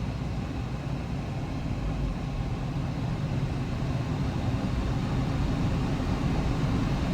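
Steady hum inside a car cabin: the engine running with the air conditioning blowing.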